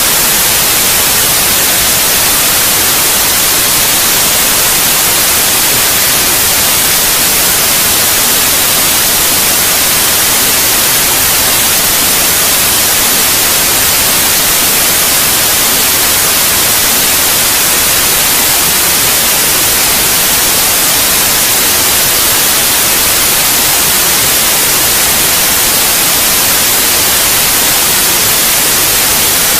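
Steady white noise: an even, loud hiss, strongest in the treble, with no changes or breaks.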